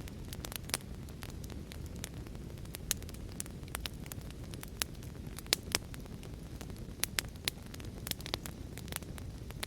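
Wood fire crackling in a fireplace, with irregular sharp pops several times a second, over a steady low rush of heavy rain.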